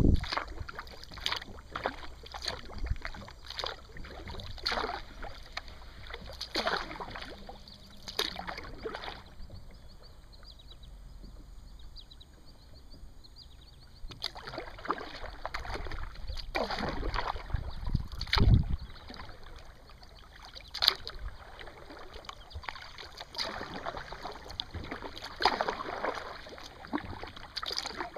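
Paddle strokes of a 17-foot kayak, each dip splashing and swishing through the water every second or two, with a few seconds of quiet gliding about a third of the way in. About two-thirds through comes a low thump, the loudest sound here.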